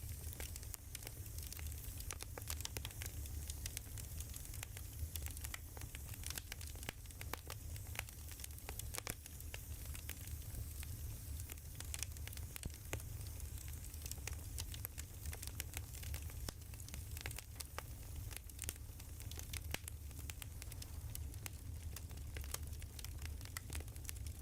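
Burning firewood crackling: a continuous, irregular run of small pops and snaps over a low, steady rumble.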